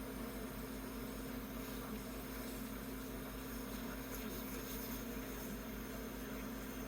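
Jeweller's soldering torch burning with a steady, even hiss while heating a piece until the solder flows.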